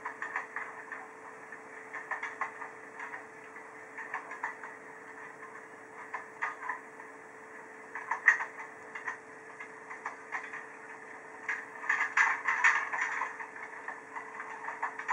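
Train running sound: irregular clicking and rattling of wheels over the track with a steady hum underneath, the clatter growing denser about twelve seconds in.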